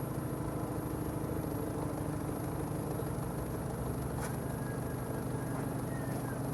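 BMW 320i E90's four-cylinder petrol engine idling steadily, heard at its exhaust.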